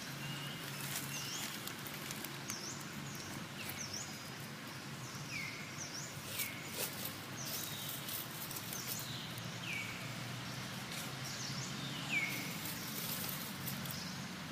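A bird calling over and over, a short high note that falls in pitch, repeated about once a second, over steady outdoor background noise with a few faint clicks.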